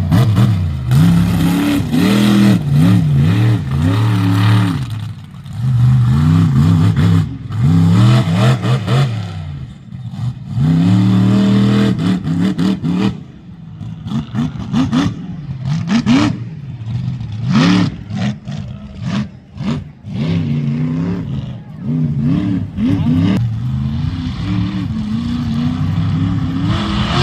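Monster truck supercharged V8 engines revving hard over and over, the pitch climbing and falling back every second or two.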